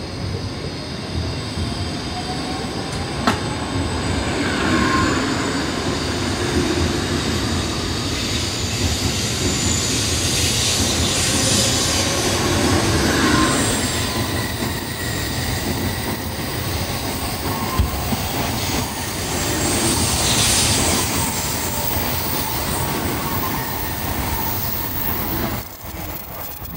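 N700S Shinkansen electric train pulling out and gathering speed past the platform: a steady rush of wheel and rolling noise, with a rising motor whine in the first few seconds, that falls away near the end as the last car clears.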